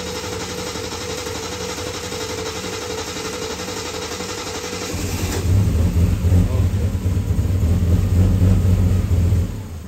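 Triumph TR6 straight-six cranking on the starter motor, a steady whirr, while the engine analyser holds off its cylinders for a cranking-amps compression-balance test. The starter draws an even current on every cylinder, about 120 amps, so compression is evenly matched. About five seconds in the engine fires and runs, louder and lower, and the sound dies away near the end.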